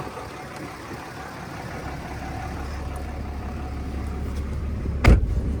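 The 2012 Ram 2500's 6.7-litre Cummins inline-six turbo-diesel running, its low drone slowly getting louder, with one sharp thump about five seconds in.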